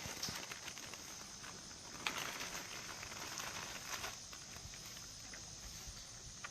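Steady high insect drone with scattered faint crackling and rustling, and two sharper clicks about two and four seconds in.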